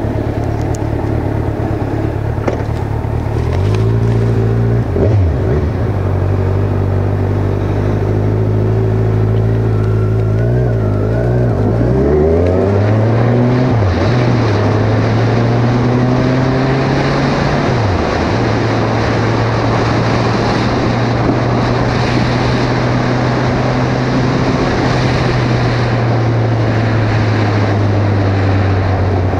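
Kawasaki Ninja 1000's inline-four engine pulling away about four seconds in and accelerating through the gears, its pitch climbing and dropping back at each shift, then cruising steadily. Wind rush on the helmet-mounted microphone grows as speed builds.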